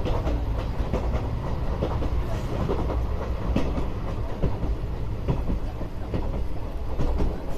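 Indian Railways passenger train running at speed, heard close to the side of a coach: a steady heavy rumble of wheels on the rails with frequent irregular clacks.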